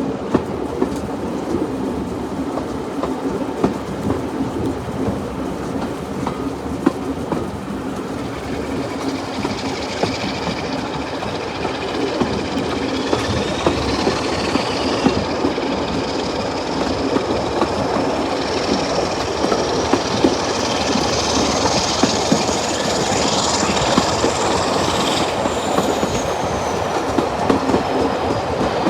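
Train running along the rails, with a steady rumble and rhythmic clicking of wheels over rail joints. From about a third of the way in, a thin high wheel squeal rises slowly in pitch, then falls away near the end.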